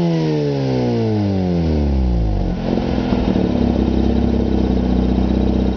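Mazda RX-8's rotary engine through a one-off homemade exhaust from the manifold back: the revs fall away after a blip and settle into a steady, lumpy idle about two and a half seconds in.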